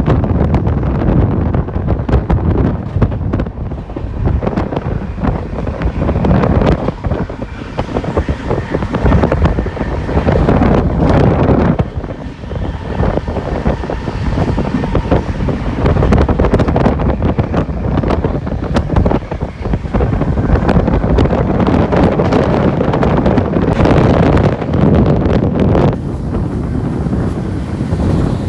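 Passenger train running on the track: steady rumble and clatter of wheels on rails, with heavy wind buffeting the microphone.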